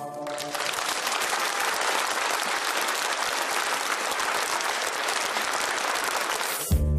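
Audience applauding steadily. Near the end the applause gives way as the music of the next number starts.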